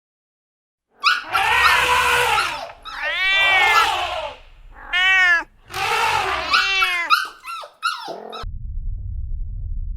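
A run of animal calls, about five loud pitched cries in a row, each arching up and down in pitch, with a few shorter calls after them. A low steady rumble takes over near the end.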